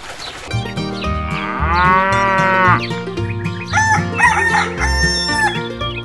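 Farm animal calls over background music: one long call that rises and falls, about a second and a half long, then a run of shorter calls near the end.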